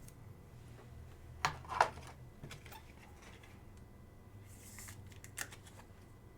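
Quiet handling of trading cards and their plastic holders on a table: a few light clicks and scrapes, the two loudest about a second and a half in, and a short rustle and click near the end.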